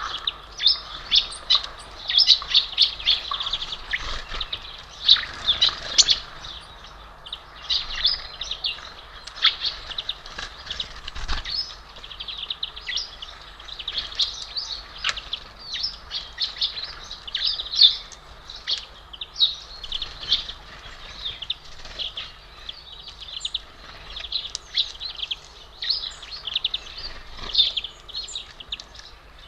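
Many small songbirds chirping and twittering at a feeder, a dense run of short, high calls overlapping one another without a break.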